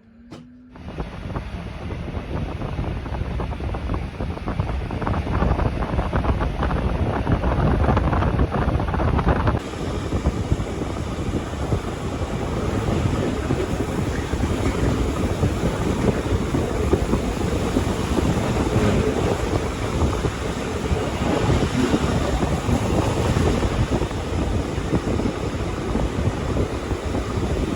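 Rhaetian Railway regional train running, a dense rumble of wheels on rail mixed with wind buffeting the microphone. It swells over the first couple of seconds and changes character abruptly about ten seconds in.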